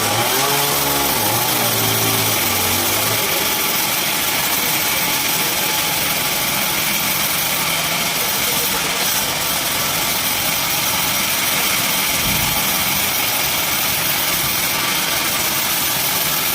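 Sawmill machinery running steadily with an even mechanical noise, a person's voice heard over it for about the first three seconds.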